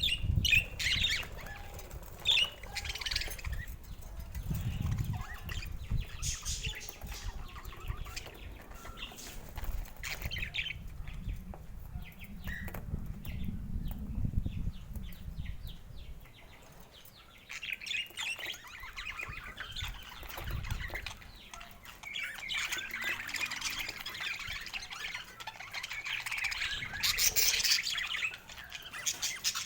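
Pet budgerigars chirping and chattering in short, scattered calls, busiest in the last third, with low rustling noise through the first half.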